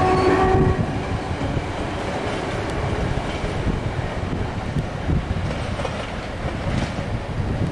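Passenger train of blue coaches and a control cab car rolling past at low speed, its wheels rumbling and clacking over the rail joints. A steady whine stops within the first second.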